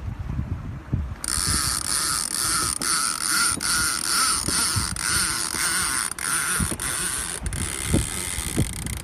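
A mechanical device on a sailboat running with a steady whir and a regular pulse about twice a second. It starts about a second in and stops abruptly near the end, over a low rumble of wind and water.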